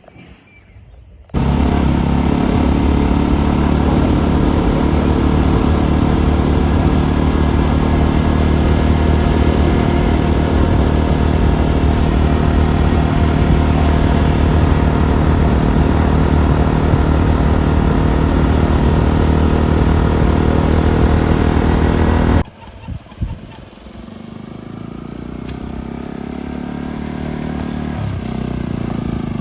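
Motorcycle running at a steady speed with a loud, even rush of noise over the engine. About three quarters through, the sound breaks off suddenly, and the engine then comes back quieter and grows steadily louder, rising in pitch as it speeds up.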